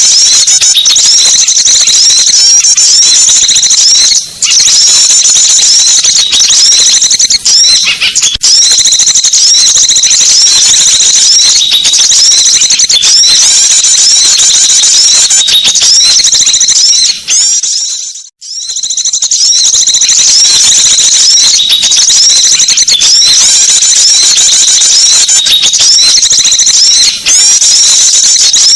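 Dense, continuous high-pitched chirping and twittering of small songbirds, a bird-lure call recording played loud, with many rapid overlapping chirps and short sweeping notes. It breaks off briefly a little past halfway and then resumes.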